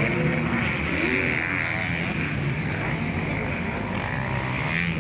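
250 cc motocross bike engines revving up and down as the bikes ride the track, with a steady hiss of engine and track noise underneath.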